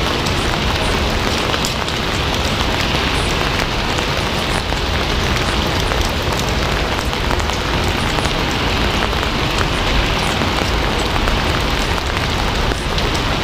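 Steady heavy rain, a dense even hiss with a low rumble underneath and scattered drops ticking.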